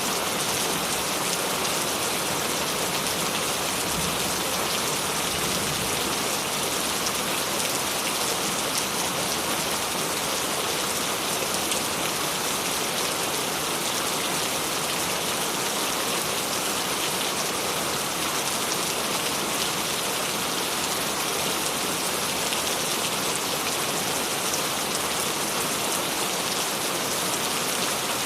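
Steady, calm rain falling: an even hiss of countless drops pattering on a surface, with no thunder.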